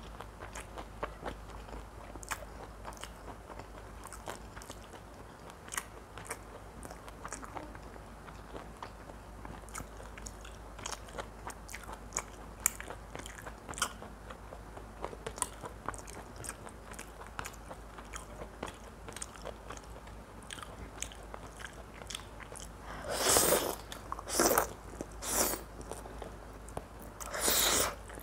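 Close-up eating of mutton curry: a steady run of small wet chewing and mouth clicks, then four louder eating noises in the last five seconds.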